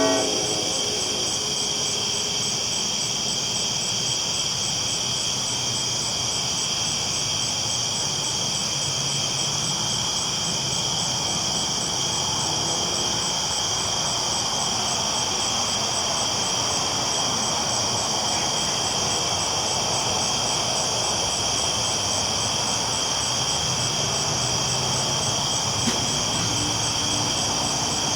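Train rolling along the tracks, a steady rumbling roar that swells in the middle, over a continuous high chorus of night insects. A low steady tone comes in near the end.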